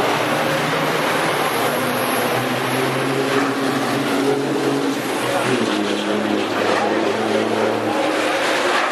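Diesel engines of Formula Truck race trucks running over a steady wash of noise, their tones dropping in pitch about five and a half seconds in.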